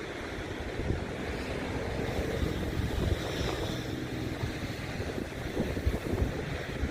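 Strong wind buffeting the microphone over ocean surf, with a wave wash swelling about halfway through.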